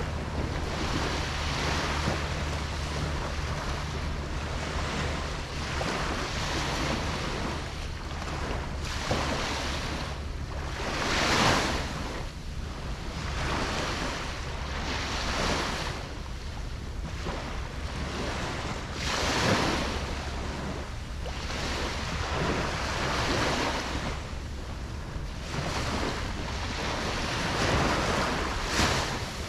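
Ocean surf breaking on a beach: a steady wash of water with waves swelling and crashing every several seconds, the strongest about a third of the way in, around two thirds in, and near the end.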